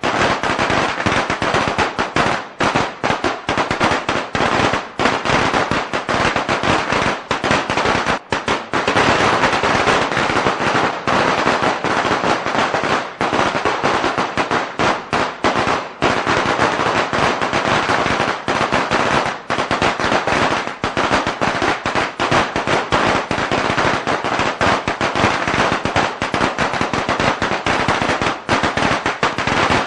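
A long string of firecrackers going off in a rapid, continuous crackle of sharp bangs, with no let-up.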